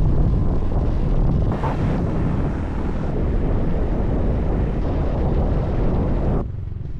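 Wind buffeting the microphone on a moving motorbike, a heavy low rumble over the bike's running and road noise. It drops off suddenly near the end.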